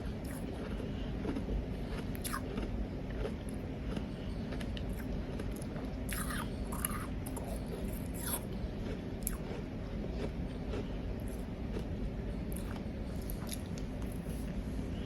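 Powdery ice being chewed close to the microphone: irregular soft crunches and crackles, busiest in the middle, over a steady low background noise.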